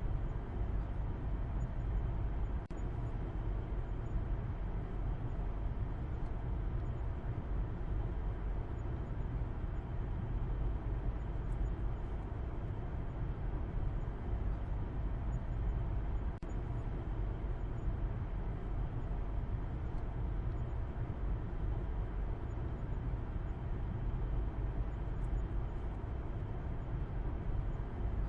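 Car driving at a steady speed: a low, even rumble of road and engine noise that does not change.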